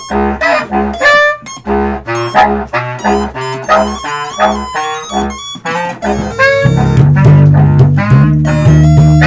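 Instrumental music from a small band: a bass line in short, even notes about two a second under reedy wind-instrument melody notes, until a louder, held low part comes in about two-thirds of the way through.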